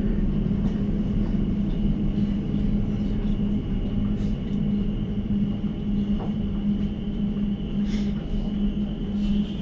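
Elizabeth line train heard from inside the carriage, running through the tunnel as it comes into Farringdon: a steady low rumble with a thin high whine and a few faint clicks.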